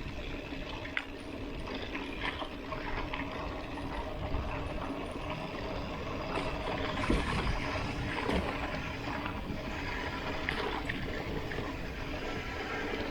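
Mountain bike rolling over a dirt track: a steady rumble of tyres and wind on the microphone, with scattered clicks and rattles from the bike.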